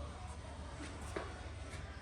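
Workshop room tone: a steady low hum, with a couple of faint light knocks about a second in.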